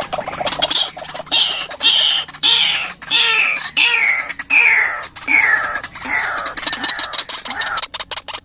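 White-breasted waterhen (ruak-ruak) calling: a loud run of about a dozen harsh, falling call notes, roughly one and a half a second, sliding lower toward the end. It is a lure call for drawing in waterhens.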